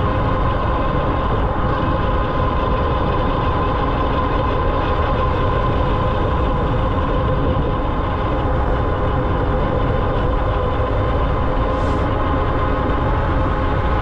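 Ariel Rider Grizzly e-bike being ridden: steady wind rumble on the microphone and tyre noise, with a constant whine from the electric motor.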